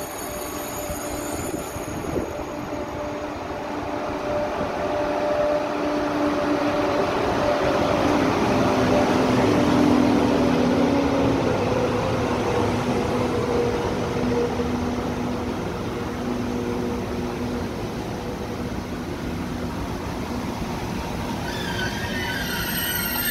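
KTX-Sancheon high-speed train pulling slowly in along the platform: a steady rumble of wheels and running gear that swells as the power car passes about halfway through, with a motor whine that falls a little in pitch as it slows. Brake squeal sets in near the end.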